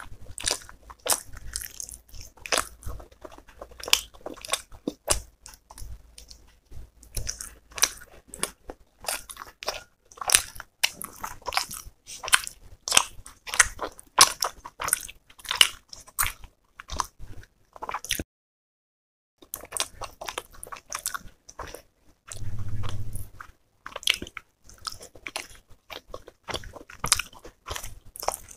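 Close-miked eating sounds of chicken curry and roti: wet chewing, lip smacks and sharp mouth clicks in quick, irregular succession. A short low hum comes a little over twenty seconds in.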